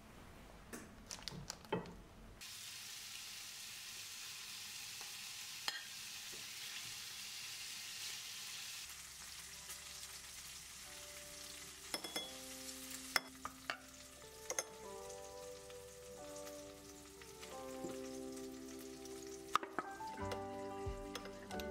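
Food sizzling as it fries in a hot pan, a steady hiss that starts a couple of seconds in and is strongest for the first several seconds. About eleven seconds in, soft music with held notes comes in, along with a few sharp clicks and taps of kitchen utensils against a small bowl.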